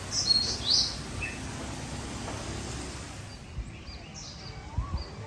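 Birds chirping over a steady background hum: a quick cluster of short high calls about half a second in, and a few more scattered calls later on.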